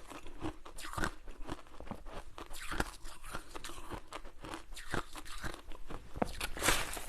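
Close-miked crunching of ice being bitten and chewed: a steady run of irregular, sharp crackling crunches, thickest near the end.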